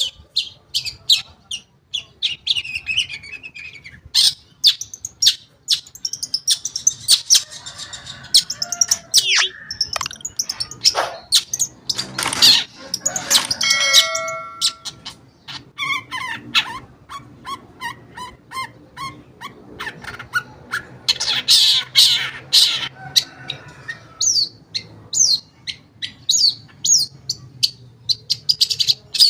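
Long-tailed shrike (cendet) singing a rapid, varied song of sharp high chirps, trills and whistles, with a harsh rasping stretch about twelve seconds in.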